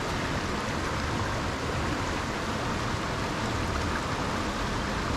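Creek water flowing steadily over rocks.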